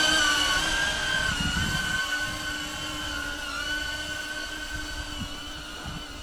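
Airscaphe X4 Pro caged quadcopter drone flying, its motors and propellers giving a steady multi-tone whine whose pitch wavers slightly and which slowly grows fainter. A gusty low rumble of wind buffets the microphone underneath.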